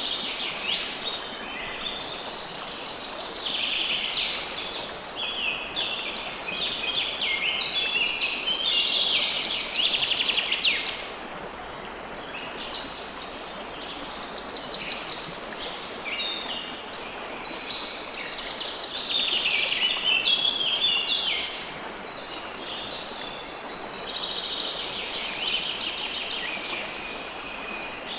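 Flowing river water as a steady rush, with songbirds singing over it in long, dense, high twittering phrases that come and go; the song is loudest a third and two thirds of the way through.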